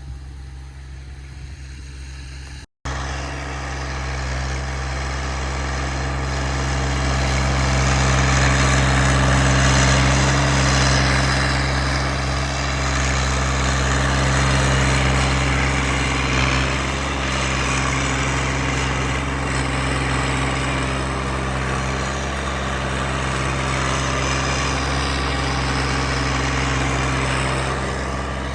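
Engine running steadily, from a machine clearing a path through deep snow. There is a brief cut about three seconds in, after which it is louder.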